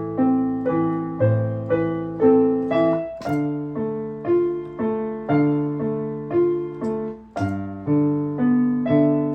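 Piano playing a melody over a left-hand broken-chord accompaniment in tenths, in steady four-four time, with about two notes a second and the notes held and overlapping under the sustain pedal.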